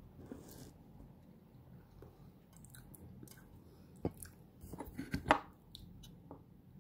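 A few light clicks and taps close to the microphone, most of them bunched together near the end, over a faint steady low hum.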